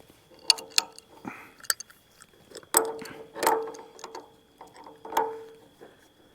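Hand tools clinking and knocking on the metal hose fittings and clamps of an excavator's hydraulic line while it is taken apart, a series of irregular metallic clicks with several sharper clanks that ring briefly.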